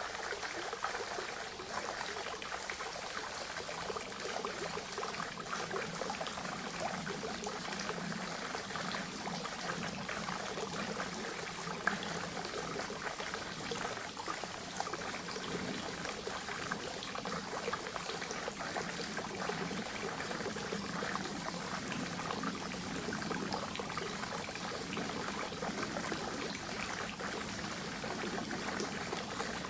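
Water from a forest spring running steadily.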